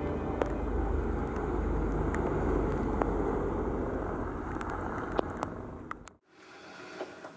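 Steady rumbling noise, strongest in the low end, with a few scattered small clicks. It cuts off suddenly about six seconds in, leaving quiet room tone.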